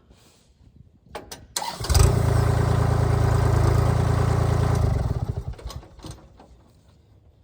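An engine starts up after a few short knocks, runs steadily for about three seconds, then dies away.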